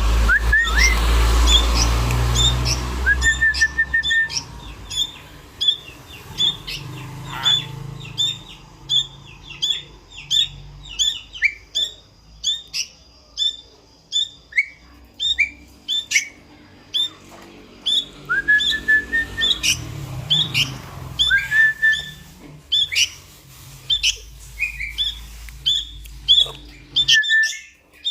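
Sooty-headed bulbul chick giving rapid, repeated high begging chirps, about two or three a second, with a few rising whistle notes held for about a second in between.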